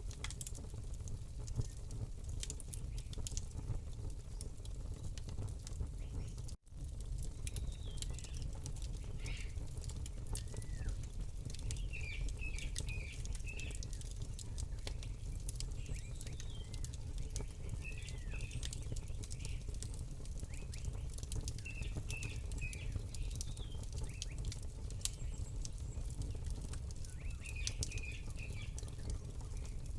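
Campfire crackling, with many sharp pops over a low steady rumble. Small birds chirp in short repeated calls from about seven seconds in. The whole track cuts out for an instant about six and a half seconds in.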